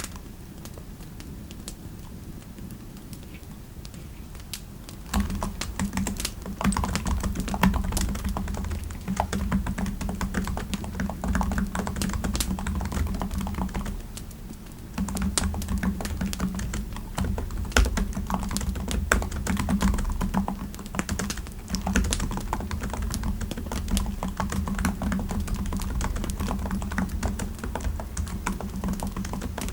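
Typing on a computer keyboard: rapid, uneven key clicks with a soft, deep knock to each stroke. The typing starts about five seconds in and breaks off briefly about halfway through.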